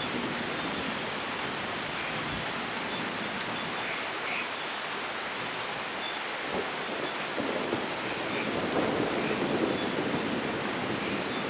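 Steady rainfall, an even hiss that grows fuller and louder from about seven to ten seconds in.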